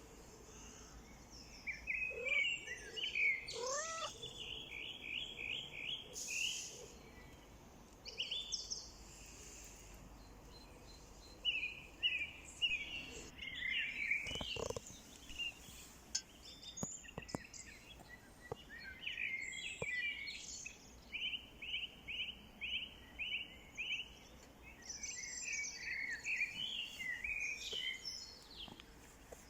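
Several birds singing outdoors, with quick series of repeated high chirps and trills, some rising whistled notes, over a soft background hiss.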